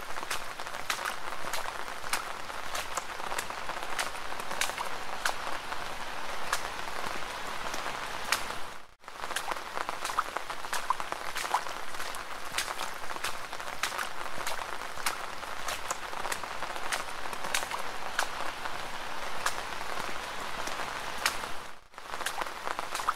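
Steady rain falling, a dense hiss full of sharp individual drop hits. The sound dips out for an instant twice, about 9 and 22 seconds in.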